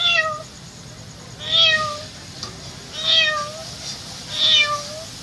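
A girl imitating a domestic cat with her voice: four meows about a second and a half apart, each a short call that dips at the end.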